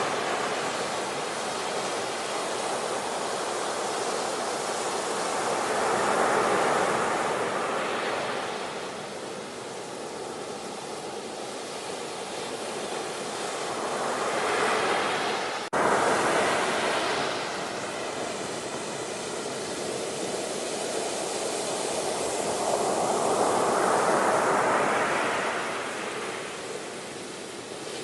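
Ocean waves breaking and washing in: a steady rush that swells and falls back every eight to ten seconds. About halfway through the sound breaks off sharply for an instant and jumps back louder, a splice in the recording.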